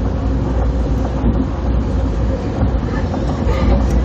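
Passenger train running at speed, heard from inside the coach: a steady low rumble.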